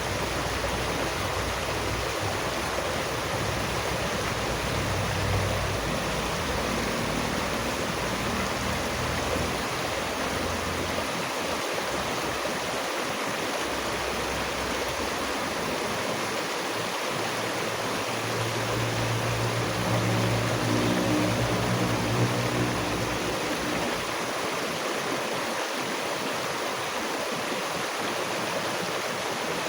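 Running water of a stream, a steady rushing. A low hum swells under it about two-thirds of the way through, then fades.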